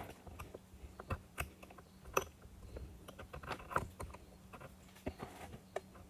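Irregular light clicks and taps of metal parts and hand tools being handled while a hydraulic steering cylinder is taken apart, over a faint steady hum.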